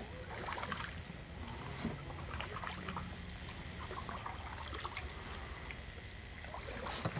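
Canoe paddle strokes: the blade dipping into the water with splashing and dripping every couple of seconds.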